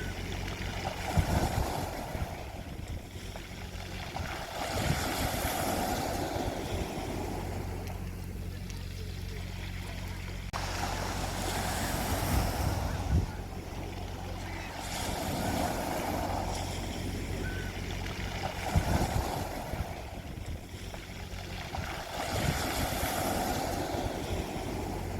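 Sea waves washing in on a beach, swelling and falling back about every three to four seconds, with a steady low hum underneath.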